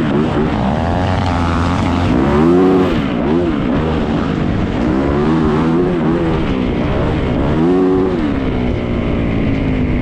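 Yamaha YZ450F dirt bike's single-cylinder four-stroke engine under riding load, its revs climbing and dropping back again and again as the throttle is worked.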